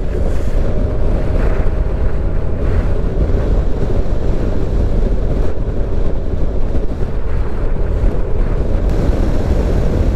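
Steady wind noise on the microphone over a motorcycle running at road speed.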